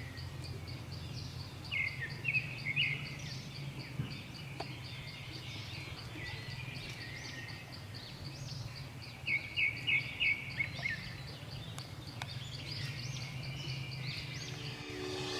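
Birds calling: a fast, even series of high chirps runs through most of it, with short runs of louder, lower notes about two seconds in and again about nine seconds in, over a steady low hum.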